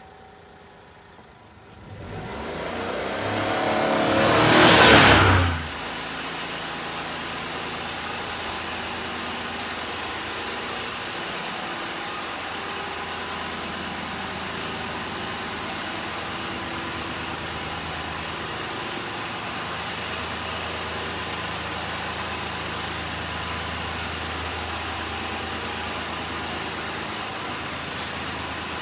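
1998 Honda Acty truck's small three-cylinder engine revving up, rising in pitch for a few seconds, then dropping back to a steady idle.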